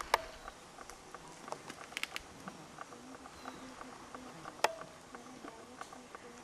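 Many small irregular clicks and ticks, a few a second, with two sharp louder clicks, one right at the start and one about four and a half seconds in.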